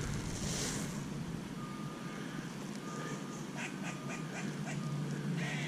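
Vehicle reversing alarm beeping about once a second, a single steady mid-pitched tone, over a steady low background rumble.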